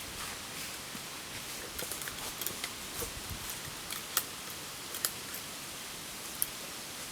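Wood fire crackling: a steady hiss of burning with irregular sharp pops and snaps, the loudest about four, five and six and a half seconds in.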